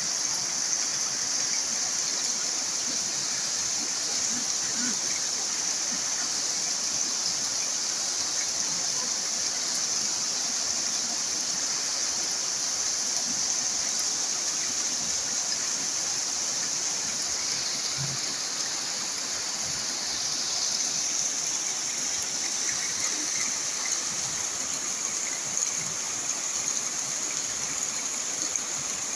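Steady hiss of heavy rain and rushing water, even and unbroken.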